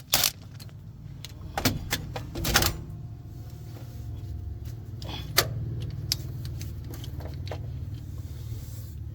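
A vehicle engine running steadily at a low idle, with a few sharp knocks and clicks over it.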